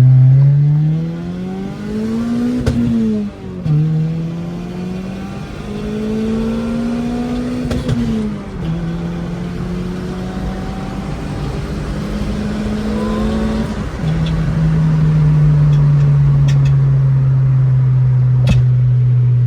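Turbocharged Honda Civic engine accelerating hard through the gears: the engine note climbs steeply, drops at a shift, climbs again, and after three shifts settles into a loud, steady, slowly falling cruise.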